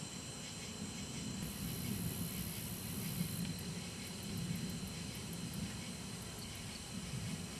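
Distant thunder, a low rumble that swells a couple of seconds in and then eases off, over a steady high hiss.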